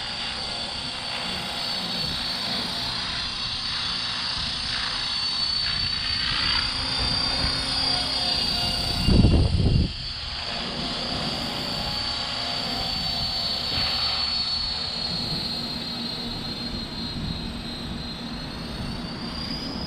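Electric 450-size RC helicopter's motor and rotor running in flight, a steady high-pitched whine whose pitch drifts up and down a little, which the pilot takes to mean the head speed is not where it should be. About nine seconds in, a loud rumble of wind buffeting the microphone for about a second.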